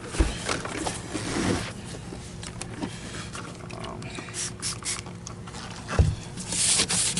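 Handling knocks and clicks as the Electrolux canister vacuum's body is worked on, with a thump about six seconds in. Near the end, rhythmic scrubbing of the canister begins.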